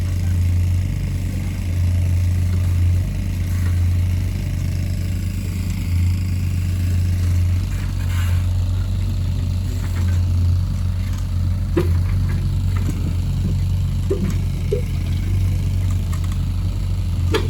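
Excavator's diesel engine running steadily, with a few short knocks in the second half.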